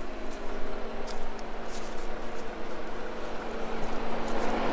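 Off-road Jeep engine running at a steady speed, with a broad rushing noise growing louder in the last second or two.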